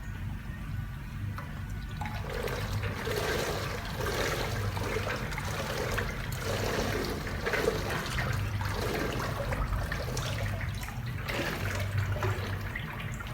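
Water running and splashing, starting about two seconds in, over a steady low hum: water work in wood-grain hydro-dipping of boat parts.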